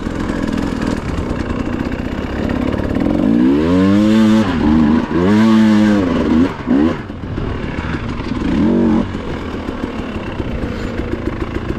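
Dirt bike engine running under load and revving, its pitch rising and falling in several surges: about three to four seconds in, around five to six seconds, briefly near seven, and again near nine seconds.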